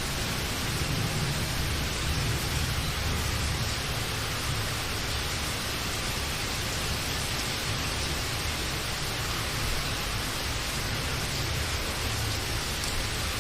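Steady rain: a dense, even hiss with a low rumble underneath.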